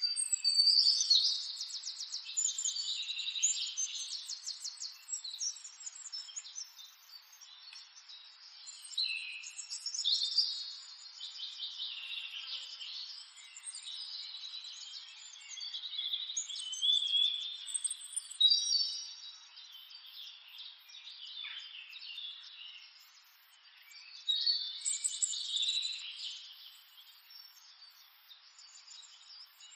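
Birds chirping and trilling in bouts of rapid high phrases that swell and fade, loudest about a second in, then again around ten, eighteen and twenty-five seconds in.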